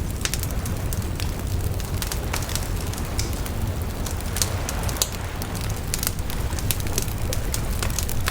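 Bonfire burning: irregular crackles and sharp pops from the burning wood over a steady low rumble.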